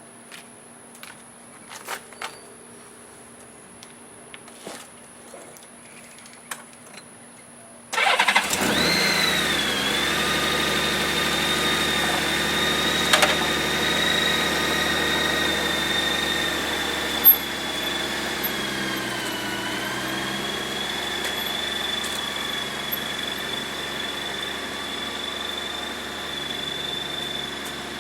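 A few light clicks and knocks. About eight seconds in, a 2012 Honda Gold Wing's flat-six engine starts and settles into a steady idle with a high whine over it.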